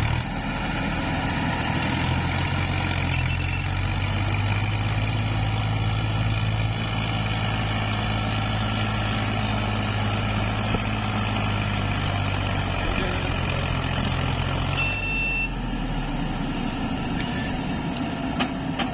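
Heavy diesel engine of earth-moving or farm machinery running at a steady speed, its note dropping away about fifteen seconds in.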